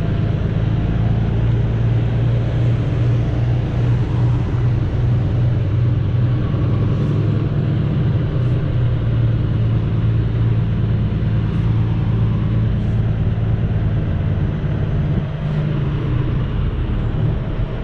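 Semi truck's diesel engine running steadily at low speed, with a few faint clicks scattered through.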